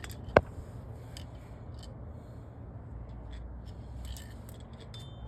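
A single sharp metallic click about half a second in, then a few faint scattered clicks and ticks of hand tools over a low steady hum, as a car's brakes are worked on.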